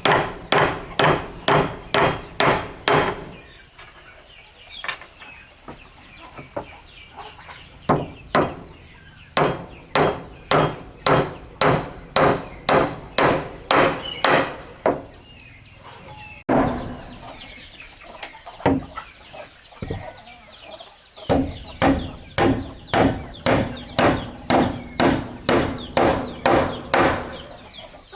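Repeated hammer blows on wood, in a steady rhythm of about two strikes a second, each with a short ring. The blows grow fainter and sparser for a few seconds early on, then return to full strength.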